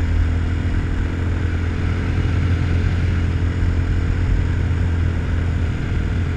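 RPS Hawk 250 dual-sport motorcycle's single-cylinder engine running steadily at cruising speed, with wind noise from the ride.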